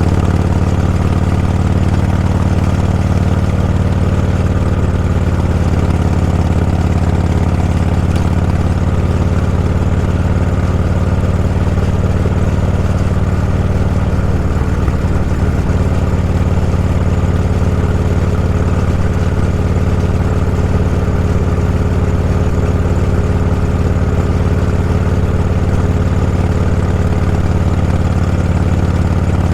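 Vehicle engine running steadily, its low, even pitch hardly changing, heard from on board.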